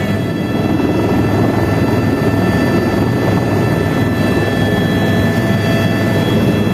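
Helicopter in flight: a steady, loud rush of rotor and engine noise with a constant high whine laid over it.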